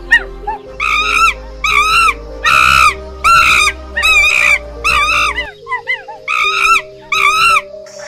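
An animal giving about ten high, arching yelps or squeals in quick succession, each under half a second, with a brief break and fainter calls around the middle, over soft background music.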